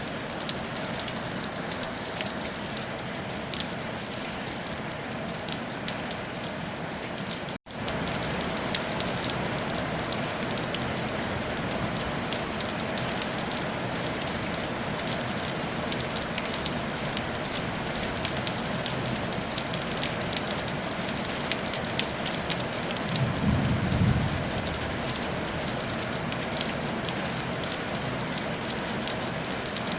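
Steady rain pattering on a tile roof. The sound cuts out to silence for an instant about seven and a half seconds in and comes back slightly louder. A short low rumble swells and fades about twenty-three seconds in.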